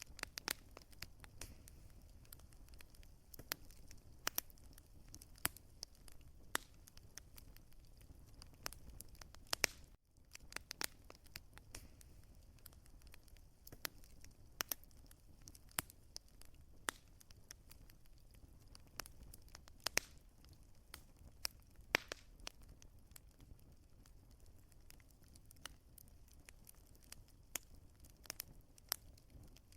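Wood fire crackling, with irregular sharp pops and snaps over a low steady rumble. The sound dips out briefly about ten seconds in.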